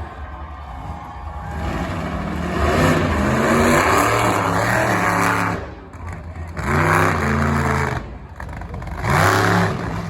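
Monster truck engine revving hard three times: one long rev of a few seconds, then two shorter ones, each rising and dropping away.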